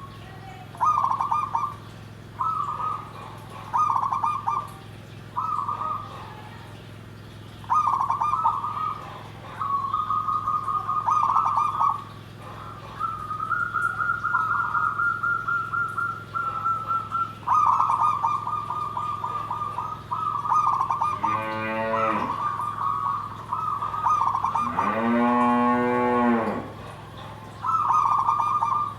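Zebra dove (perkutut) cooing: phrases of rapid trilled coos at one pitch, each about a second long, repeated with short pauses, in a voice that fanciers call big and dry. Two lower, drawn-out calls from another animal come in about three quarters of the way through.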